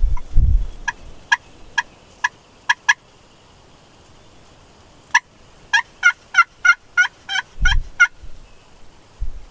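Wild turkey yelps: a run of about five short notes, then after a pause a faster run of about nine. Low thumps come in at the start and again near the end.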